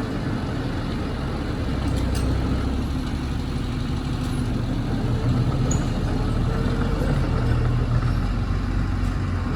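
Heavy diesel engine of earthmoving machinery running steadily with a deep rumble, growing louder about two seconds in and again between about five and eight seconds.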